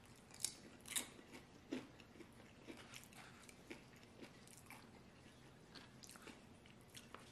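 Faint close-up chewing of a mouthful of burrito bowl food: soft mouth clicks and light crunches, the louder ones in the first two seconds and fainter after.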